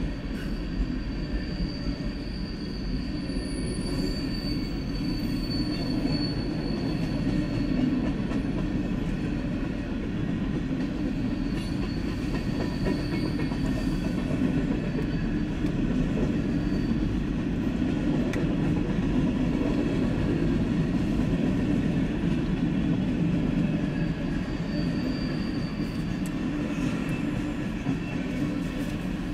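Freight cars rolling past at a grade crossing: a steady rumble of wheels on rail, with a thin high wheel squeal that comes and goes several times.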